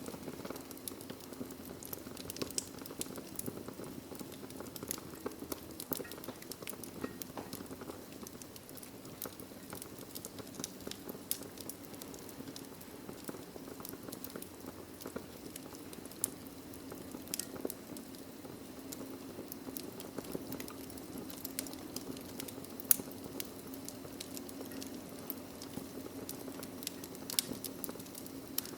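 Wood fire burning in a fireplace: a steady soft rush of flames with frequent small crackles and pops from the logs, one sharper pop near the end.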